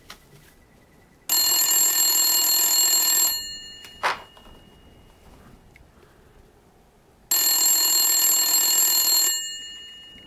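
Corded desk telephone ringing twice: two rings about two seconds long, about six seconds apart, with a sharp click between them.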